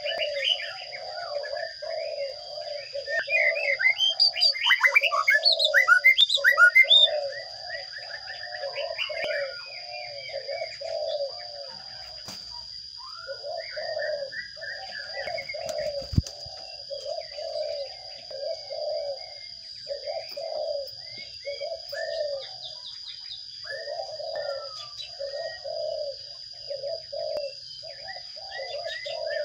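Sparrow nestlings begging, a dense flurry of loud, high chirps from about three to seven seconds in, typical of chicks being fed, then scattered chirps. A low call repeats about twice a second throughout, under a steady high-pitched tone.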